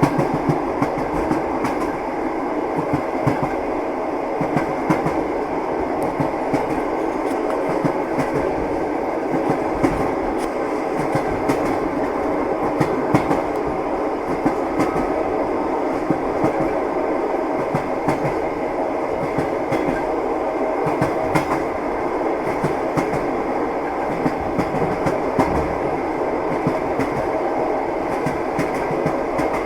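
Train wheels clattering on the rails of a moving train: a steady running rumble broken by frequent sharp clicks and knocks.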